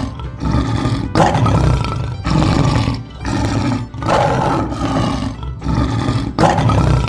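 Lion roaring over and over, a new roar starting about once a second.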